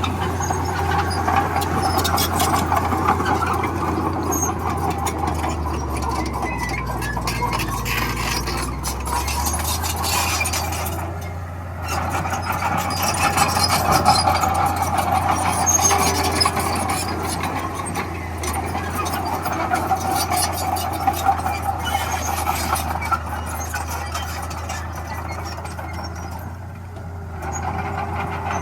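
Heavy diesel earth-moving machinery working: a bulldozer's engine drone runs steadily with a faint clatter, easing off briefly twice, about eleven seconds in and near the end.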